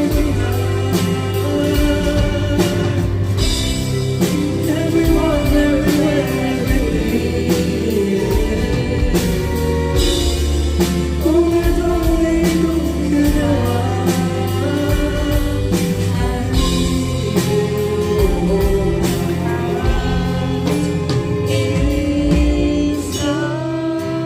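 A live pop band performing, with a male vocalist singing over a steady drum beat, bass and guitar, as heard from the audience.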